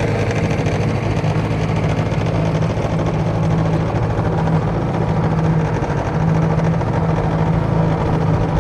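1978 Mercury 7.5 hp two-stroke outboard motor running steadily, driving a jon boat along at cruising speed.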